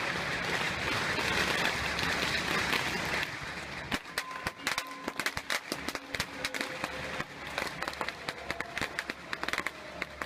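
Strings of firecrackers going off: a dense continuous crackle that, about three seconds in, thins into rapid, irregular individual sharp bangs.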